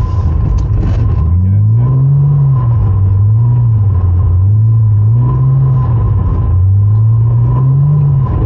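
Porsche Cayman engine revving up and down while the car is held in a drift, its note rising and falling several times as the throttle is worked.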